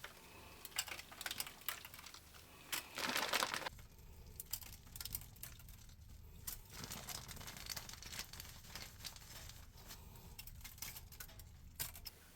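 Faint crinkling and rustling while dark brown sugar is handled and spread over the ribs, with one louder rustle about three seconds in.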